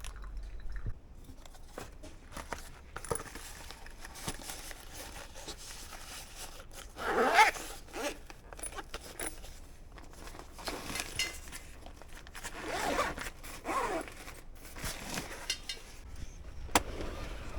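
A zipper being pulled open and shut several times, the longest pulls about seven seconds in and again near eleven and fourteen seconds, with rustling and small clicks between.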